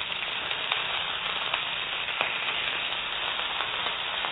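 Chicken sausages frying in hot oil in a nonstick pan: a steady sizzle with many small crackles and pops.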